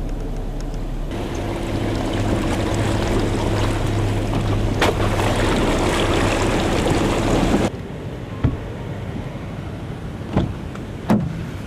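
A truck engine pulling under load with a steady hum while the truck drives through water, with a loud rushing splash. It cuts off abruptly about two-thirds of the way through, leaving a quieter engine rumble with a few sharp knocks.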